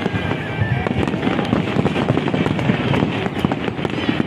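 Aerial fireworks display going off in a dense, continuous volley of overlapping cracks and bangs.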